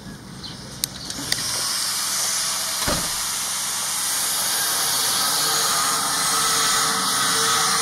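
A couple of sharp clicks, then a loud, steady hiss that starts suddenly about a second in and keeps on.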